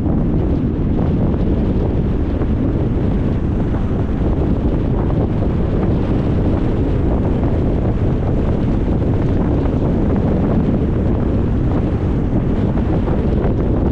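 Steady, deep rumble of wind and road noise from a moving car, with wind buffeting the microphone.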